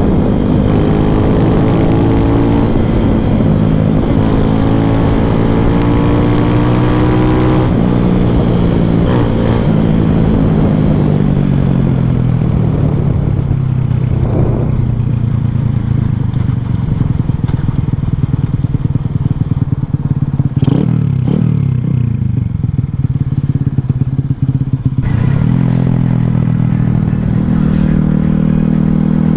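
Single-cylinder four-stroke engine of a Boom Vader mini bike with a 141cc big-bore kit and Nibbi carburettor, under way. The engine note climbs for the first seven seconds or so, drops away and runs low through the middle with a few quick blips, then picks up again near the end.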